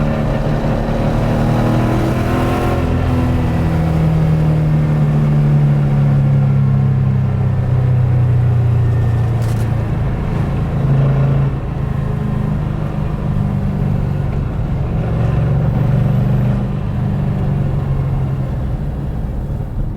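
A car engine running loud, its pitch rising and falling several times as it is revved or driven through the gears.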